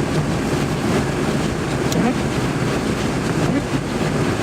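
Steady cabin noise of a 2002 Kia Sportage driving through snow: engine and tyre noise, even and unbroken.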